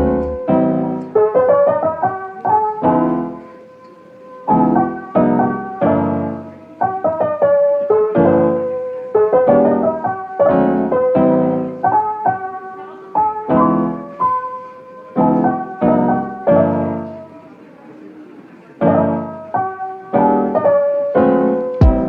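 Background music: a mellow lo-fi piano track, chords and melody notes played one after another, each ringing out and fading, with two short softer lulls.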